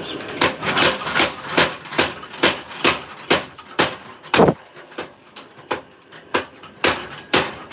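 Forging hammer striking metal in a steady rhythm of about two to three blows a second, with a short lull past the middle.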